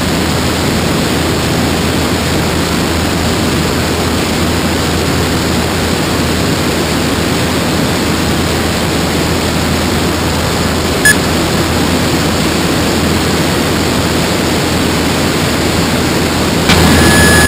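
Steady hiss and low drone of a Cessna 172's piston engine at climb power after takeoff, as heard through the aircraft intercom. A brief radio click comes about eleven seconds in, and the radio keys up with a short tone near the end.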